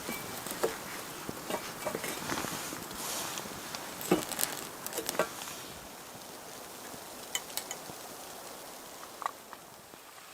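Water in a pot on a small camp stove coming up to a rolling boil: a steady hiss with scattered small clicks and crackles.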